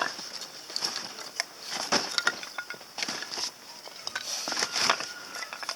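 Irregular sharp crackles and snaps from small kindling burning in a compact titanium fire grill, over a steady high-pitched hiss.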